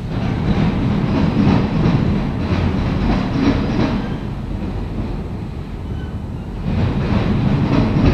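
Autorack freight cars of a CSX local train rolling past: a steady rumble of steel wheels on rail with repeated wheel clicks. It eases off briefly in the middle and grows louder again near the end.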